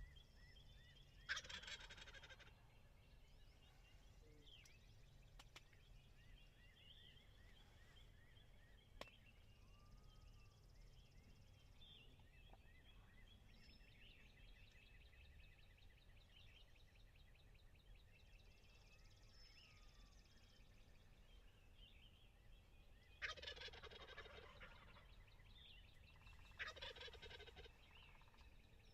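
Wild turkey gobbler gobbling close by: one rattling gobble about a second in, then two more near the end, a few seconds apart.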